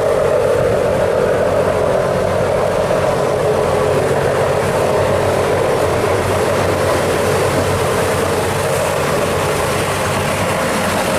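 Fishing boat's engine running steadily, a constant loud drone.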